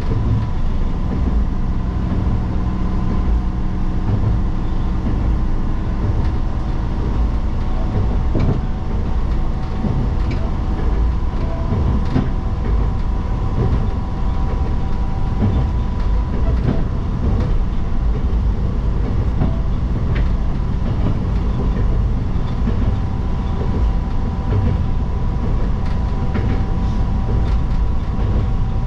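Tsugaru Railway diesel railcar running along the line, heard from inside the front of the car: a steady engine and running drone with wheel noise and occasional short clicks of the wheels over the rails.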